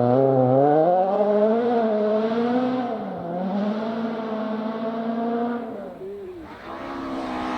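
Rally car engine under hard driving on a gravel forest stage, its note rising sharply in the first second and then swinging up and down with throttle and gear changes. It fades about six seconds in, and a steady engine note follows near the end.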